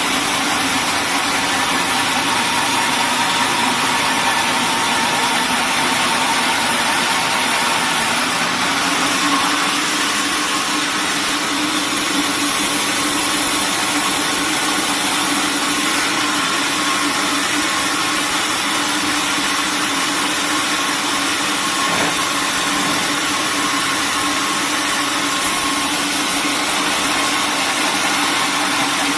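Sawmill machinery running steadily, a constant engine-like drone with no break.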